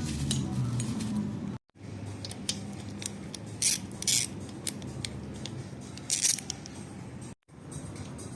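Small metal handling sounds during hand work on motorcycle parts: scattered clicks and three short rasping strokes, over a low steady hum, with two abrupt silent cuts.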